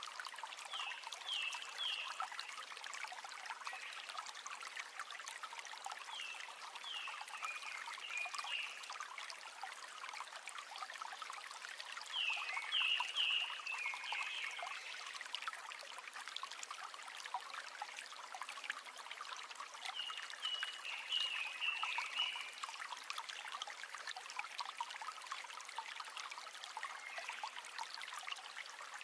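River water flowing in a steady rushing trickle. A small animal calls over it with a short phrase of high, descending chirps, repeated about every six seconds.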